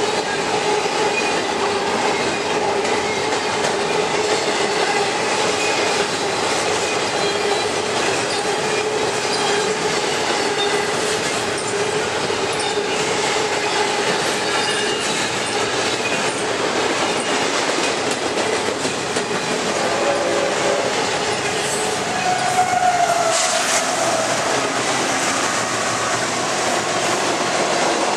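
Intermodal freight train rolling past with a steady rush of wheels on rail and the clickety-clack of the cars. A steady ringing tone runs over it and fades about twenty seconds in.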